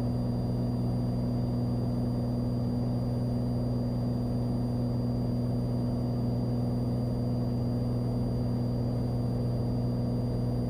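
Cessna 182's piston engine and propeller in the climb, heard in the cockpit as a steady low drone with a faint high whine above it.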